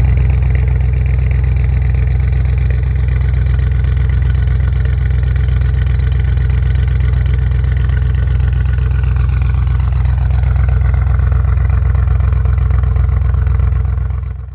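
Audi RS6 Avant C8's twin-turbo V8 running at a steady idle through a decat Capristo exhaust with the particulate filter deleted, a loud, deep and even drone that cuts off abruptly at the end.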